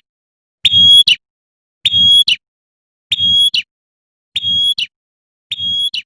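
A female prenjak (prinia) gives the 'tembakan' call that draws males, five times at about 1.2 s intervals. Each call is a half-second steady high note that ends in a quick sharp upward stroke, and the calls grow gradually softer.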